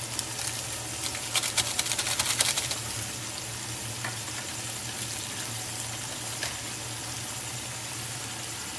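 Chicken, onions and halved tomatoes under a layer of biryani masala frying in oil in a metal pot: a steady sizzle with a low hum underneath, and a quick run of sharp crackles about a second in.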